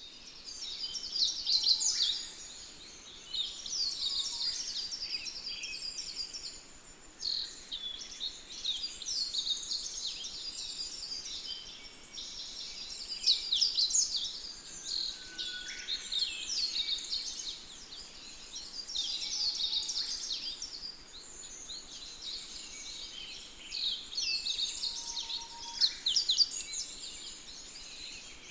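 Many birds chirping and singing at once: a continuous chorus of quick, high-pitched chirps and short trills.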